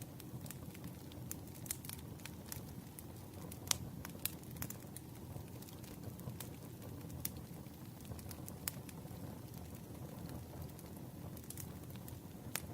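Campfire burning: wood crackling with irregular sharp pops over a low, steady rush of flame. One pop, a little before the middle, is louder than the rest.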